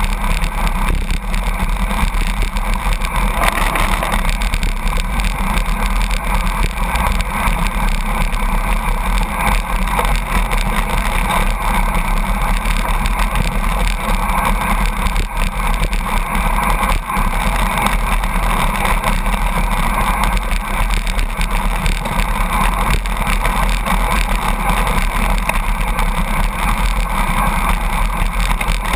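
Steady, loud rush of wind and road noise from a bicycle riding at about 82 km/h in a truck's slipstream, with the truck's running and tyre noise mixed in.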